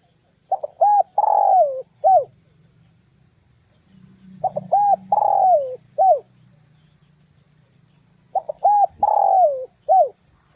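Spotted dove cooing its song three times, about four seconds apart. Each phrase is a few short coos, then a longer coo falling in pitch, then one short closing coo.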